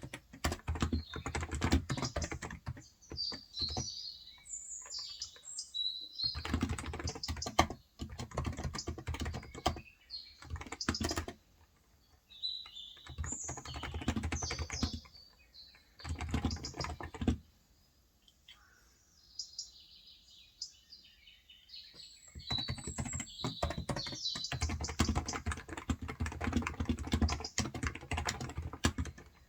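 Typing on a COX Endeavour 35 g electrostatic-capacitive (non-contact) tenkeyless keyboard, in fast bursts of keystrokes separated by pauses of a few seconds. Small birds chirp high-pitched in between and over the typing.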